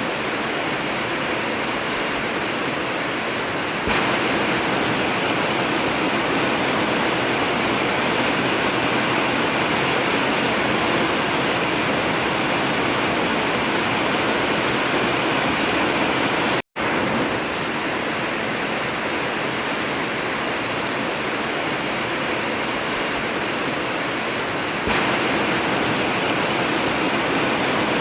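Heavy rain drumming steadily on an old corrugated metal roof, a dense even hiss with no thunder. It gets louder a few seconds in, cuts out to silence for an instant partway through, and swells again near the end.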